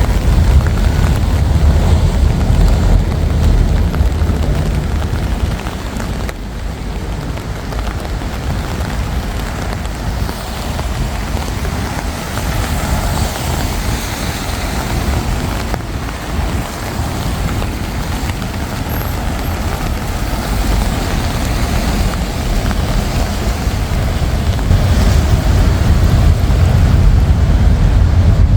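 City road traffic passing close by: a steady rumble of vehicles, louder near the start, easing in the middle and building again toward the end.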